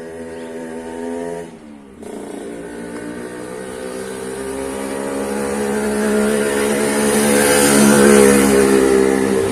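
Motor vehicle engine running with a steady pitched hum. It dips and cuts out briefly about two seconds in, as at a gear change, then grows steadily louder as it accelerates.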